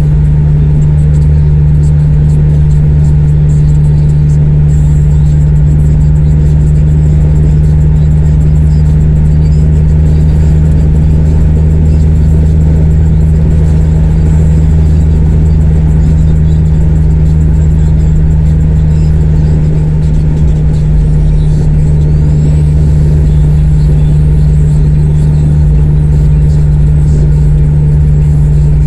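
Honda CR-V exhaust with the resonator and muffler deleted, the engine running at steady revs with a loud, constant low drone.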